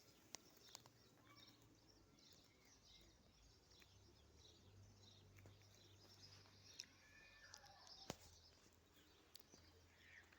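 Faint birds chirping here and there, with a few sharp clicks and a low hum underneath.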